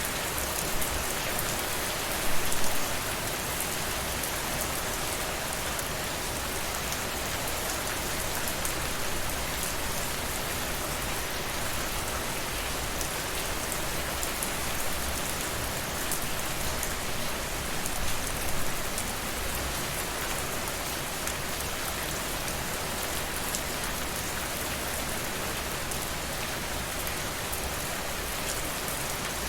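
Steady rain falling on a surface, with individual drops pattering and a few louder gusts of heavier rain, about two seconds in and again at about eighteen seconds.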